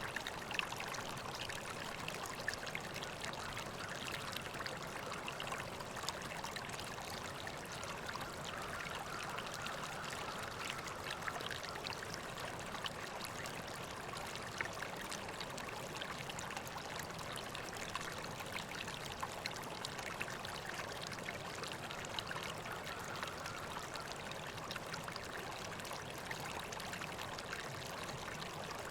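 River water flowing and splashing steadily.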